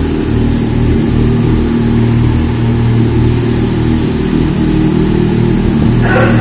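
Yamaha XJ6 Diversion's 600 cc inline-four engine running steadily through an Akrapovic exhaust, with a deep, even note that holds a constant pitch.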